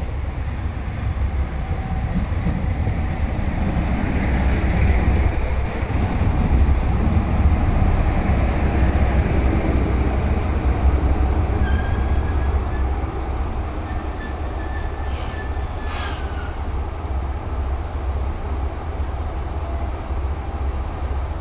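JR Shikoku Type 1500 diesel railcar pulling into a station, its low diesel rumble and wheels on the rails growing louder as it runs past. A thin, steady squeal from the wheels and brakes starts about halfway through and drops in pitch as the train slows, followed at once by a short hiss.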